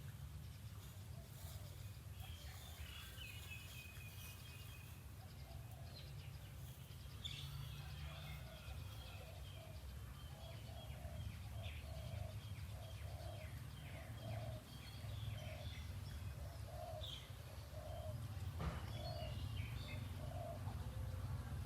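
Birds chirping in short high calls, with a low call repeated about ten times at an even pace through the middle, over a steady low rumble of ambient noise.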